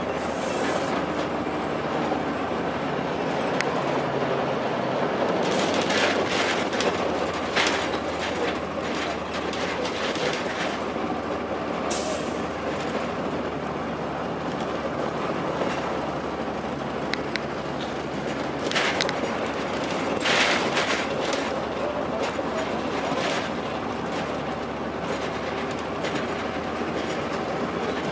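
Interior of a 2002 Blue Bird transit bus under way: its Cummins ISC inline-six diesel running under road noise, with fittings and body panels rattling and clattering every few seconds.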